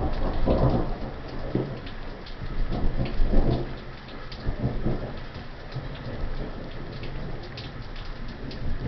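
A long roll of thunder rumbling, swelling about half a second in and again around three seconds in, over steady rain with individual drops ticking close by.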